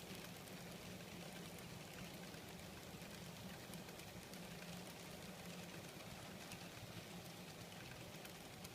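N scale Kato GE C44-9W model locomotive running on track: a faint, steady motor hum with light scattered ticking of the wheels on the rails.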